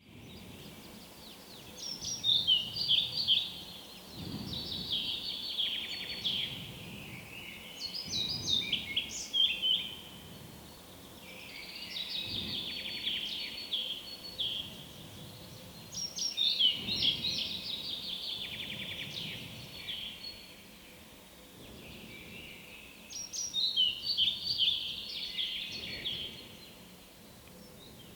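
European pied flycatcher singing: short, high-pitched, rhythmic song phrases of about two seconds each, repeated every few seconds with brief pauses between them.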